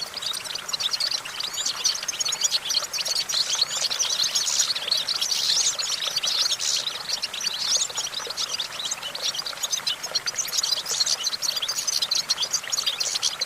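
European goldfinch singing: a fast, continuous stream of twittering chirps and trills without pause.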